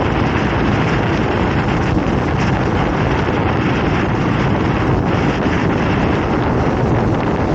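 Motorcycle running at a steady speed on the road, its engine drone mixed with heavy wind noise buffeting the microphone.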